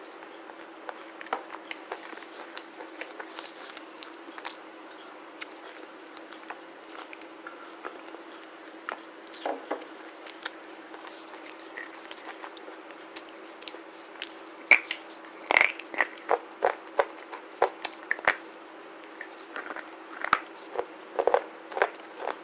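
Close-miked biting and chewing of a black slate bar: sharp crackling crunches, sparse at first, then louder and more frequent from about two-thirds of the way in.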